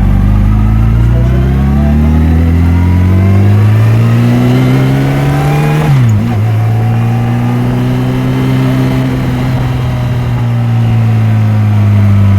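Yamaha FJR1300's inline-four engine pulling the motorcycle along: its pitch rises for about six seconds as it accelerates, drops sharply at an upshift, then holds steady and eases off near the end.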